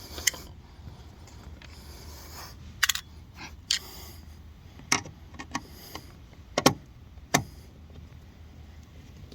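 Sharp metallic clicks and clinks, about seven of them at uneven intervals, from hand tools and small screws being handled while a car door panel is unscrewed, over a low steady hum.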